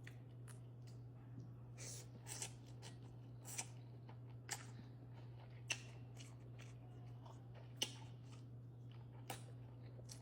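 Close-miked eating sounds: imitation crab sticks being chewed, with soft wet mouth clicks and crackles every second or so over a steady low hum.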